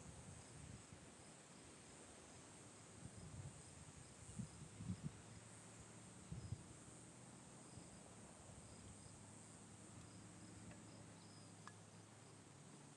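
Faint insect chorus: a steady high chirring with a soft chirp repeating through it, and a few dull low thumps about four to six seconds in.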